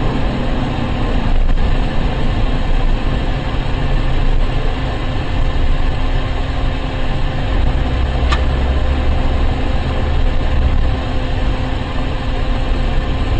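Steady vehicle engine and road rumble with no impact, heavier low rumble in the middle, and one short high chirp a little past the middle.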